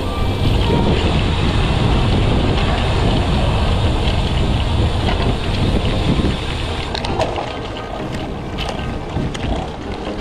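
Wind buffeting the microphone of an action camera on a moving bicycle, a loud steady rumble that eases about seven seconds in, with a few light ticks near the end.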